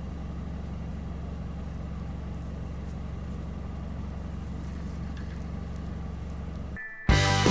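Steady low road and engine rumble of a car driving. Near the end it cuts off abruptly and loud music with bright beeping tones comes in.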